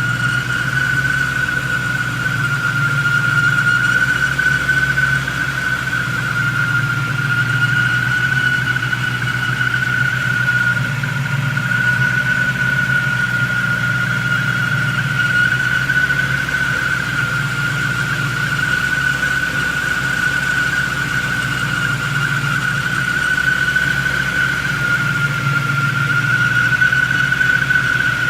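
1996 Ford Mustang SVT Cobra's 4.6-litre DOHC V8 idling with a loud, steady high-pitched whine over it, wavering slightly in pitch. The whine comes with a cold start and goes away once the engine has run a couple of minutes.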